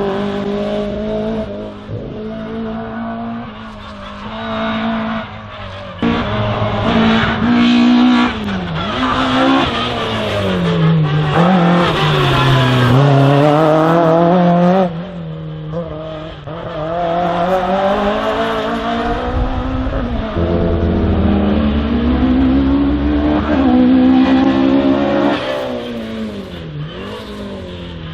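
Race car engine at full throttle through a slalom course, its pitch climbing and falling again and again as the driver accelerates, lifts and changes gear between the cones.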